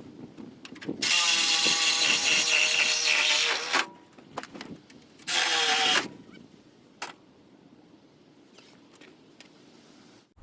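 Handheld power drill/driver running in two bursts, the first about three seconds long and the second under a second, with a few clicks and knocks between them, as it backs fasteners out of the machine's wooden panels.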